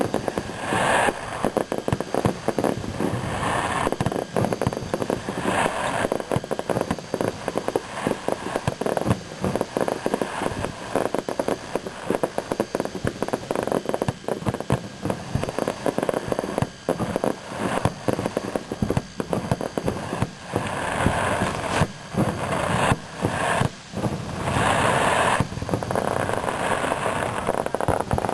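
Fireworks display going off continuously: a dense, rapid crackle of many small bangs, with louder swelling bursts about a second in, around four and six seconds in, and twice more near the end.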